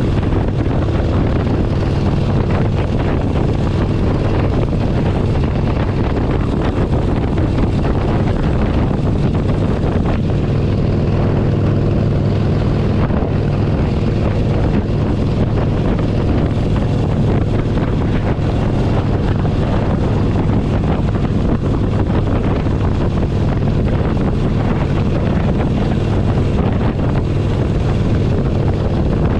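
Harley-Davidson Forty-Eight Sportster 1200's air-cooled V-twin engine running at a steady pace on the road, with wind noise on the microphone.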